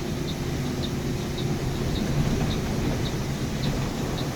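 Steady engine and road hum inside a bus cabin, with a light tick repeating evenly about twice a second, the ticking of a turn-signal flasher.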